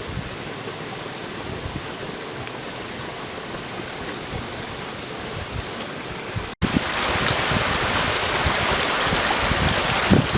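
Forest stream running steadily. About two-thirds of the way in, the sound cuts abruptly to a louder stretch of running water with wind buffeting the microphone.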